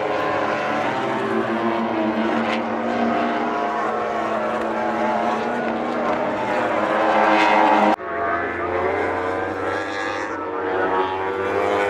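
MotoGP race bike engines running at high revs on track. One climbs in pitch and gets louder, then the sound cuts abruptly about eight seconds in to another bike's engine.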